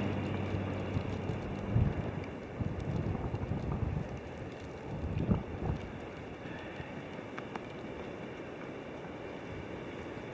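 Winter storm wind blowing, with gusts buffeting the microphone over the first few seconds before it settles into a steady rush. A low steady hum cuts off about two seconds in.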